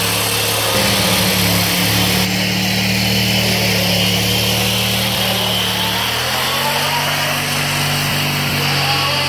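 Briggs & Stratton 14 hp opposed-twin engine of a Bolens lawn tractor running steadily, its pitch stepping up slightly about a second in and again about six seconds in.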